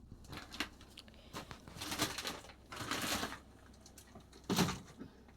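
Irregular light knocks and rustles of things being handled, about five in all, the strongest near the end.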